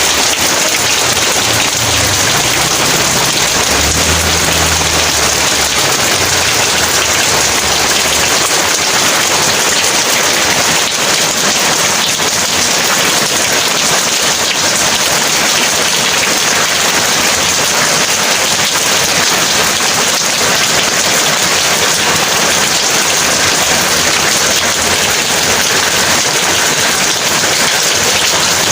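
Heavy rain pouring steadily. A low rumble of thunder rolls under it in the first several seconds, then fades away.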